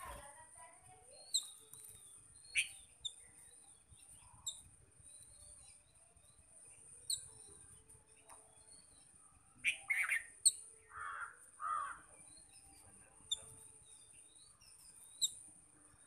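Babblers calling while foraging: short, sharp chirps every second or two, and a run of louder, harsher squawks about ten seconds in. A steady high-pitched hiss runs underneath.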